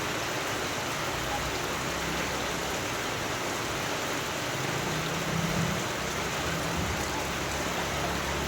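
Steady rain falling as an even hiss, with a low rumble swelling briefly about five seconds in.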